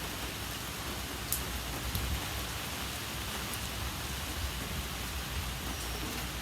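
Steady rain falling, an even hiss with a faint tick about a second in.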